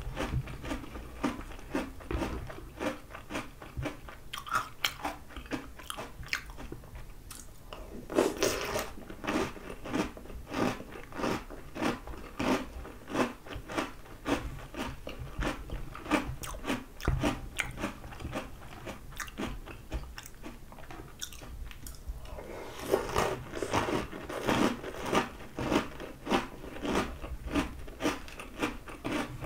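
Crunching and chewing of Oreo O's chocolate cereal: a rapid run of crisp crackles several times a second, growing louder about eight seconds in and again from about twenty-three seconds.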